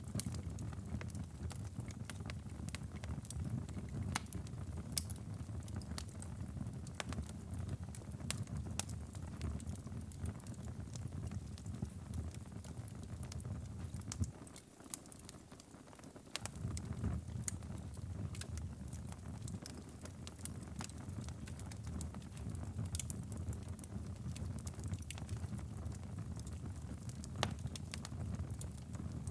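Wood fire crackling, with irregular sharp pops over a steady low rumble. The rumble drops away for about two seconds midway, then returns.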